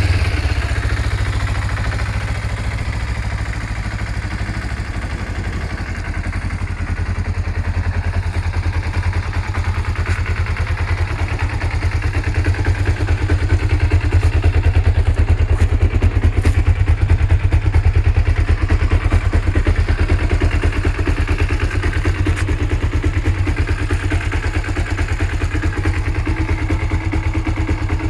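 Kawasaki ZZ-R250's parallel-twin four-stroke engine idling steadily, a deep even pulse with slight swells in loudness.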